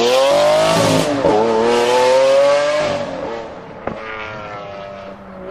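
Car engine revving hard, its pitch climbing and dipping, then easing off and fading after about three seconds. A single sharp click about four seconds in.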